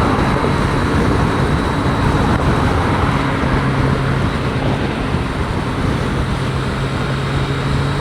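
Heavy wind noise inside a motorcycle helmet at highway speed, about 70 mph, with the Triumph Street Triple 765 RS's inline three-cylinder engine droning steadily underneath in fourth gear, picked up by a microphone tucked inside the helmet.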